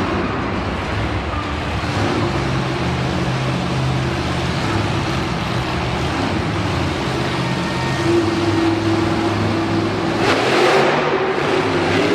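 Monster truck engine running and revving, its pitch climbing about eight seconds in and again near the end, over a steady wash of background noise.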